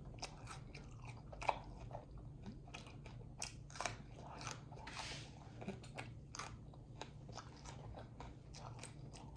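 Close-miked eating: chewing and biting with scattered small crunches and wet mouth clicks, from someone eating Dungeness crab and steak dipped in garlic butter.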